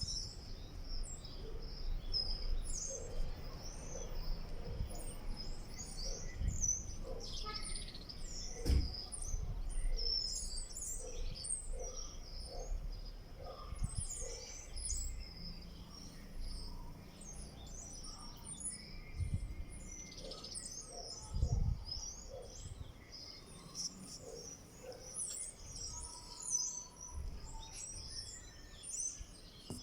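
A flock of small wild birds chirping and twittering, many short high chirps overlapping without a break. A few low thumps stand out, the clearest about 9 and 22 seconds in.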